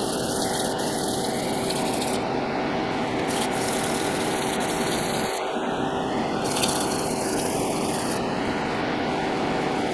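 Machine tool running steadily: a constant motor hum under an even mechanical whir, with one short tick about two-thirds of the way through.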